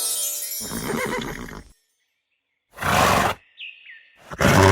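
A horse neighing, then two short breathy blows about a second and a half apart.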